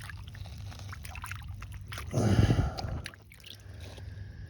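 Water splashing and trickling as a heavy stone is handled in shallow water, with one louder burst lasting about a second, starting about two seconds in.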